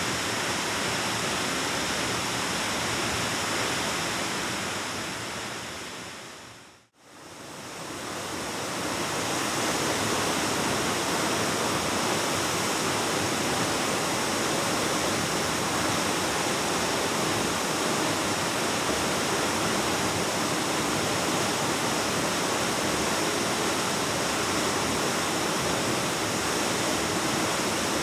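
Waterfall rushing steadily, a dense even roar of falling water. About seven seconds in, the sound fades briefly to silence and then fades back up.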